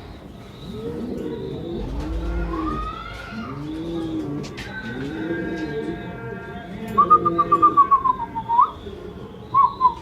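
Several domestic pigeons cooing, their low rolling coos overlapping throughout. In the second half a rapid trilled whistle sounds twice, the first falling slightly in pitch.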